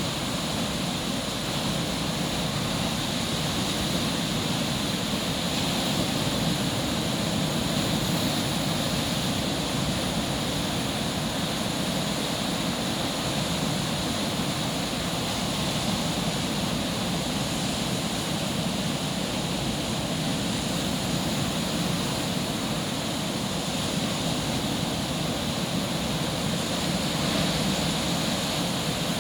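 Ocean surf breaking on a sandy beach, a continuous wash of waves that swells and eases gently.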